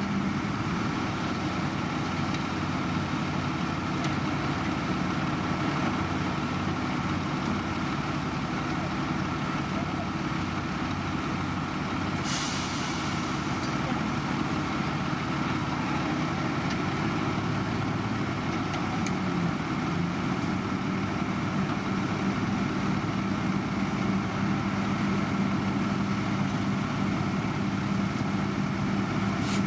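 Heavy road construction machine's engine running steadily at a constant pitch, with a short burst of hissing air about twelve seconds in.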